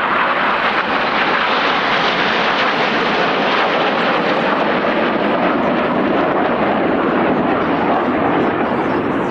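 Several BAE Hawk T1 jets flying a formation manoeuvre, a loud, steady rush of jet engine noise.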